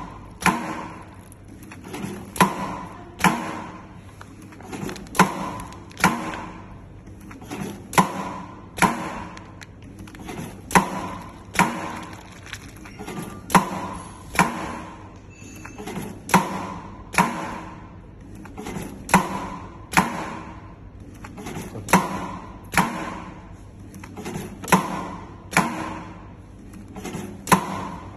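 Ultrasonic bag sewing machine running: repeated sharp mechanical clacks, mostly in pairs about every three seconds, over a steady high-pitched whine.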